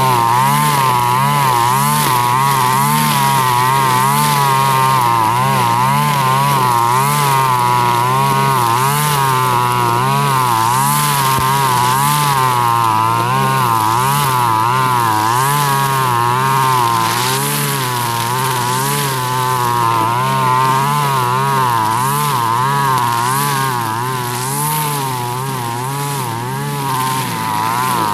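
Husqvarna 542RBS backpack brush cutter's two-stroke engine running at high speed, its pitch wavering up and down about once a second as the nylon trimmer line cuts through grass. It eases off briefly near the end.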